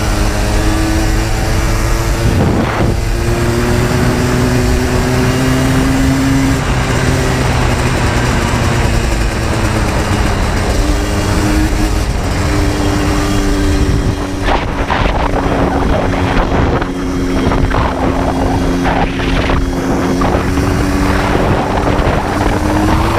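Yamaha Blaster 200's single-cylinder two-stroke engine running under way, its note steady between a few changes in pitch as it shifts gear. Wind buffets the microphone, more roughly in the second half.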